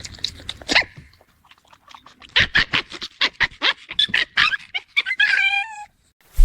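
A dog vocalising: a quick run of short sounds, about five a second, then a single high whine near the end.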